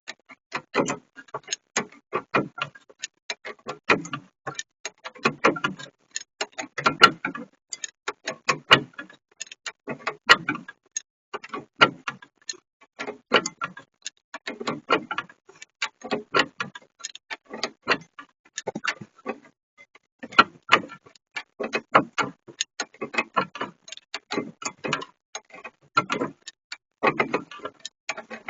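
Ratchet wrench clicking in repeated bursts, a burst of rapid clicks about every second, as a bolt is wound out.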